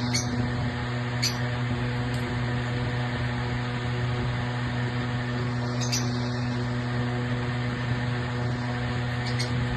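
Steady machine hum, with a few short high chirps about a second in, near the middle and near the end.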